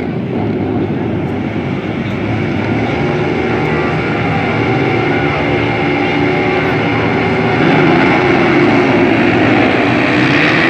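Several dirt bike engines racing, their pitch rising and falling as they rev, growing louder about two-thirds of the way through.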